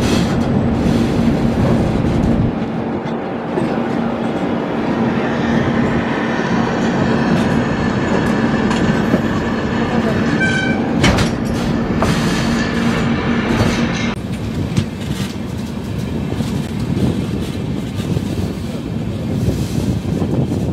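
Express train coaches running along the track, heard from an open coach door: a steady rumble with clickety-clack of wheels over rail joints and a brief horn note about ten seconds in.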